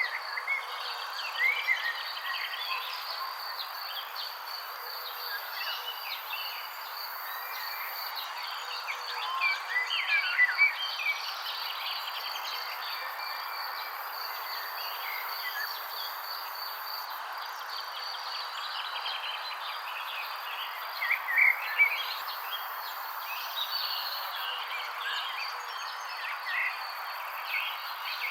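Birds chirping in short, scattered calls, with louder clusters near the middle and again about three quarters through, over a steady high-pitched insect trill and a constant background hiss of a natural soundscape.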